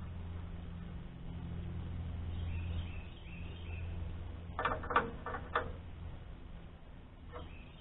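A hand tool clinks against metal a few times about five seconds in, over a steady low hum, with faint bird chirps a little before.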